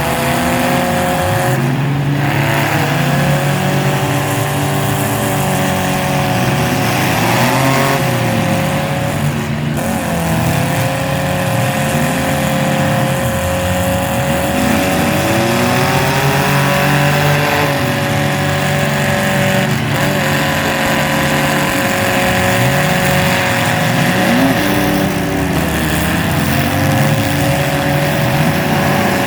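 Mini trucks' small engines running together, several at once: one holds a steady high pitch while others rev up and down again and again.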